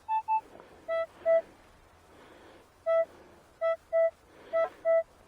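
Metal detector beeping on a buried target. There are two short higher beeps, then seven short lower beeps, mostly in pairs as the coil passes over the spot. The target reads around 11 to 13 on the detector's ID, a repeatable signal that sounds good to the detectorist.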